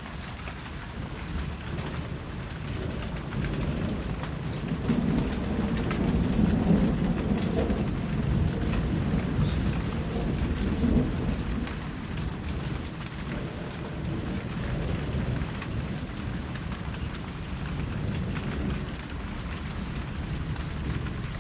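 Steady rain with a low roll of thunder that builds about four seconds in, rumbles for several seconds and fades away before the halfway point.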